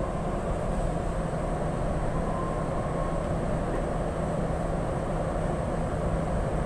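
Steady rumble and hum inside an MRT-3 Metro Manila light-rail car, heard from the passenger cabin.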